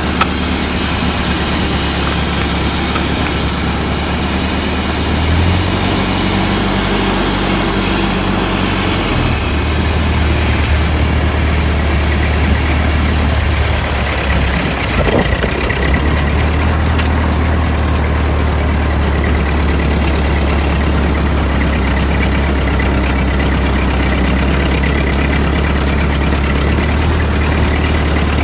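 Ford 8N tractor's four-cylinder engine running at idle. Its note shifts about five seconds in and wavers briefly around the middle.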